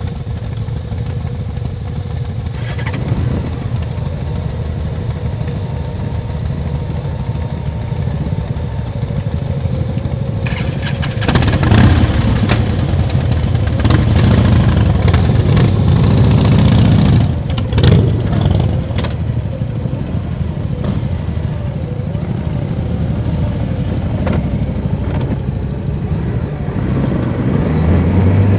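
Motorcycle engine running on the road, steady most of the time and growing louder for several seconds midway before settling back.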